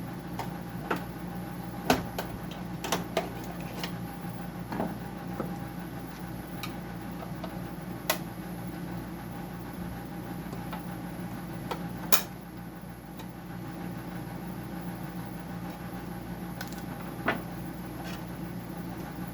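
Scattered sharp clicks and knocks of hand tools and metal dehumidifier parts being handled, the loudest about 2 and 12 seconds in, over a steady mechanical hum.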